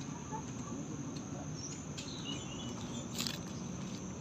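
Night insects, crickets among them, keeping up a steady high-pitched drone, with a few faint short chirps and a brief click about three seconds in.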